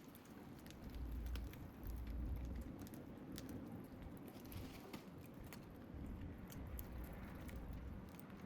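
Scrap-wood bonfire crackling, with irregular sharp pops and snaps over a low hiss. A low rumble swells briefly between about one and two and a half seconds in.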